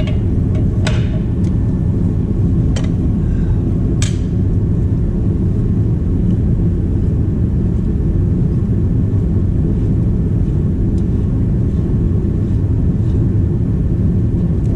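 Steady low rumble throughout, with a few sharp metallic clinks in the first four seconds or so.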